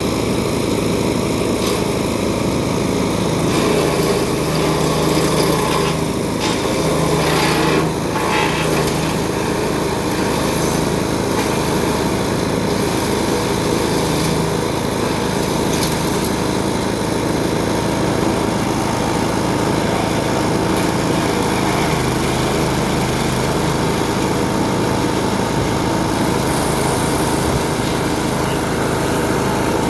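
Small engine running a portable shredder with a built-in wood chipper, a steady machine drone, with a few sharp cracks about six to eight seconds in.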